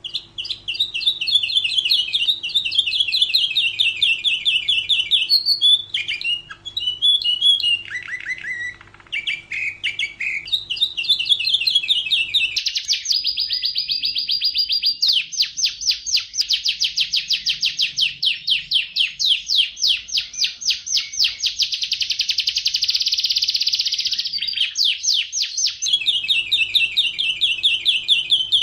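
Domestic canary singing a continuous song of rapid trills and repeated notes. In the middle comes a long, very fast rolling trill lasting over ten seconds.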